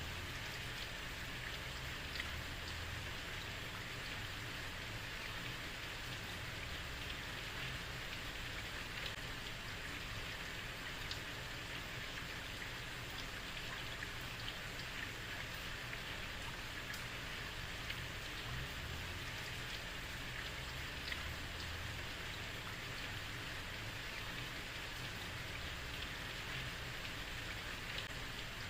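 Heavy rain falling steadily on a street, a constant hiss with scattered individual drop ticks and a low rumble underneath.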